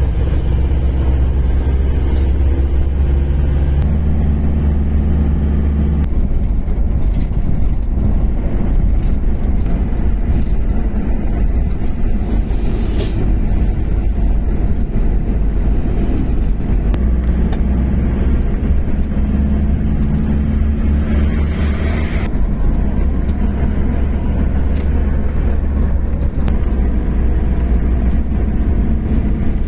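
Mitsubishi Fuso truck's diesel engine running under way, a loud steady low drone with road rumble, its engine note shifting slightly as it drives.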